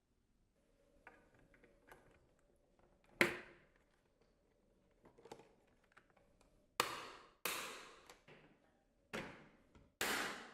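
Sharp clicks and knocks from parts of a Dyson Cyclone V10 cordless vacuum being handled and fitted together: one strong click about three seconds in, then four more close together in the second half, each dying away briefly.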